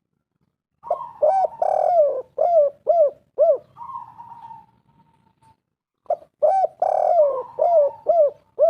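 Spotted dove (tekukur) cooing: a phrase of several rounded coos starts about a second in and trails off into a soft, drawn-out note, and a second phrase follows about six seconds in.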